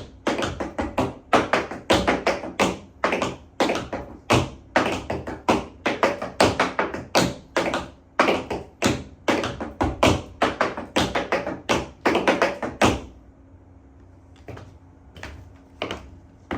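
Metal-plated tap shoes striking a wooden tap dance board in a quick, continuous run of taps, several a second, for about thirteen seconds; then a few softer, sparser taps near the end.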